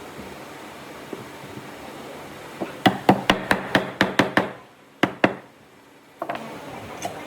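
Hammer blows on wood: a quick run of about eight sharp strikes, roughly four a second, then two more after a short pause.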